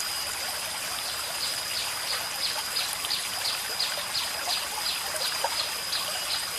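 Water trickling and splashing down a fiberglass artificial-rock garden waterfall. A steady high-pitched whine with about three short falling chirps a second runs alongside it from about a second and a half in.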